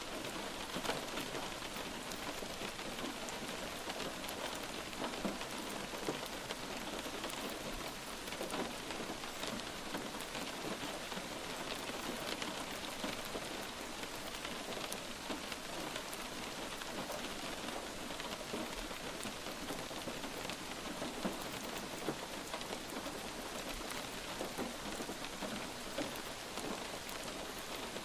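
Light rain falling steadily: an even hiss of rainfall with many small, separate drop ticks.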